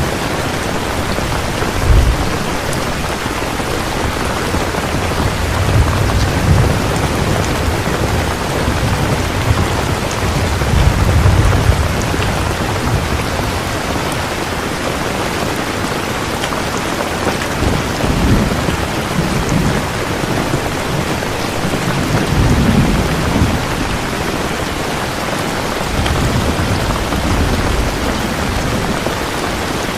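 Steady, heavy rain falling, with low rumbles of thunder that swell and fade several times.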